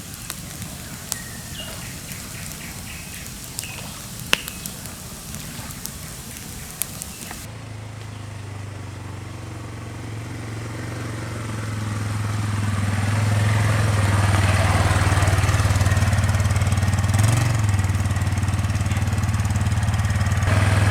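Damp firewood in a campfire crackling, with a few sharp pops. Then, after about seven seconds, an ATV's engine comes in and grows louder over several seconds, running on as a steady, loud drone with a hiss of spray for the rest of the time.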